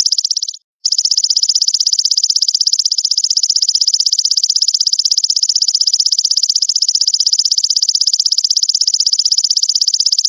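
Belalang mas grasshopper stridulating: a loud, continuous high-pitched trill of very rapid, evenly spaced pulses, broken once by a brief silence under a second in.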